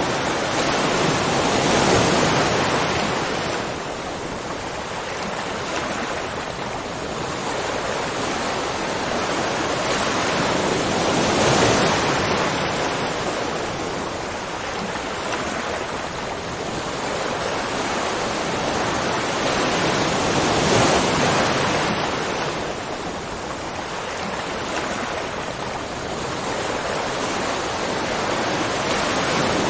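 Rushing water, a steady loud wash that swells and eases about every nine to ten seconds.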